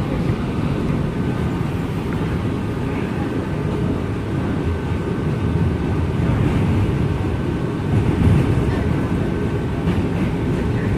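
Steady low rumble inside a Bombardier R179 subway car as the train runs along the track, with a faint steady whine above it and a slight swell about eight seconds in.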